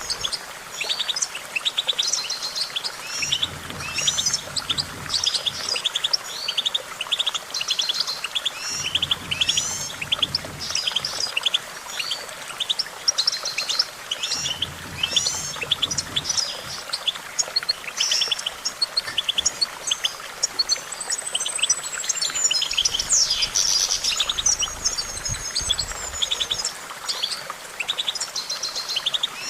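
European goldfinch singing: a fast, continuous twittering run of high chirps, trills and short rising and falling notes.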